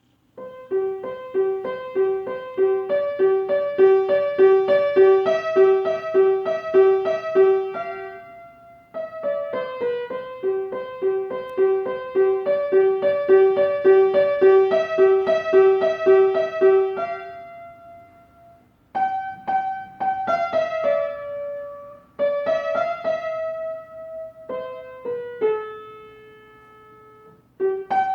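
Solo piano playing a simple melody over one note repeated about twice a second; the phrase is played twice, each time dying away, and about two-thirds of the way through it turns to slower single notes and chords.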